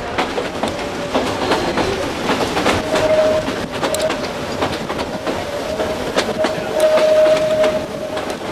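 Carriages of a vintage narrow-gauge steam train rolling along the line, wheels clicking irregularly over the rail joints. In the second half a thin steady tone sounds on and off.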